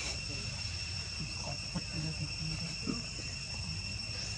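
Insects trilling steadily in a constant high-pitched chorus, with a few faint short sounds underneath.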